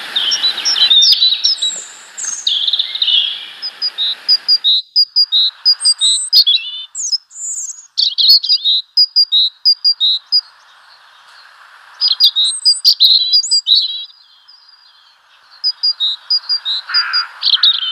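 Small garden songbirds chirping and calling in runs of short, high notes, several birds at once, with a few brief lulls.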